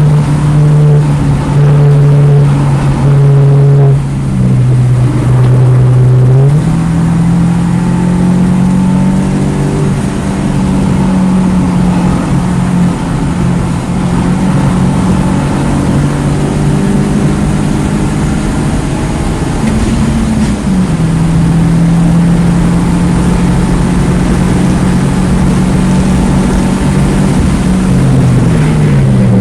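2009 Mini Cooper S's turbocharged 1.6-litre four-cylinder engine running hard on track. The engine note holds fairly steady for long stretches, with a few sudden changes in pitch, and dips then rises again near the end.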